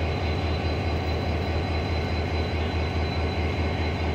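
Passenger train running: a steady rumble with a fast, even low pulsing underneath.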